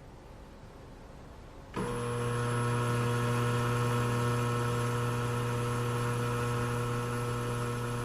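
A steady, low, machine-like drone with many overtones starts abruptly about two seconds in and holds at an even pitch, after a faint start.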